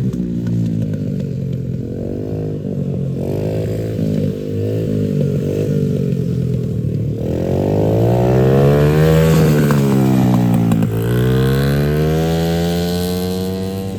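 Small dirt bike engine running under a rider, the revs wavering low at first, then climbing about halfway through, easing off about ten seconds in and climbing again near the end.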